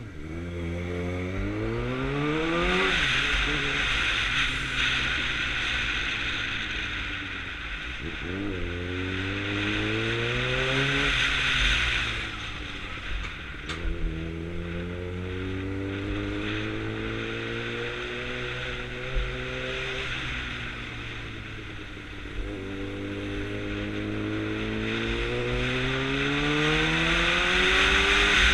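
2009 Suzuki GSX-R600's inline-four engine accelerating through the gears on the move: the pitch climbs, drops at each shift, and climbs again several times, with a strong wind rush throughout.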